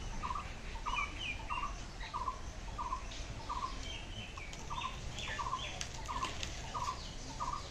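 A bird repeats a short, slightly falling note at an even pace of about one and a half times a second, with higher chirps from other birds scattered over it.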